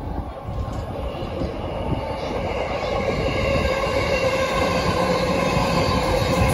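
A JR East E353 series limited-express train running past, its wheel and running noise swelling as it comes in about two seconds in and then holding steady, with a steady whine over the rumble.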